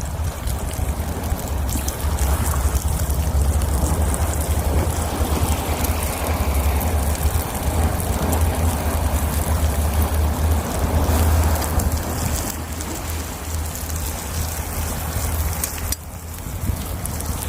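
Wind buffeting the microphone outdoors: a steady low rumble, with a noisy hiss and scattered faint crackles over it.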